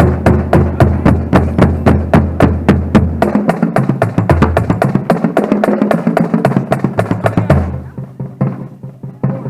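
Marching band playing with its drumline: a fast, even pulse of sharp drum strokes over low held notes. About eight seconds in it drops quieter, then picks up again near the end.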